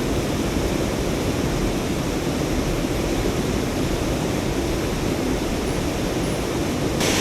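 Mountain stream water rushing and splashing in a steady, even roar. Near the end it turns suddenly brighter and a little louder.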